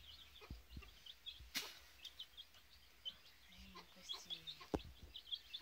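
Birds chirping in short, high peeps that repeat throughout, with a brief low call about midway. Two sharp clicks, one about a second and a half in and one near the end.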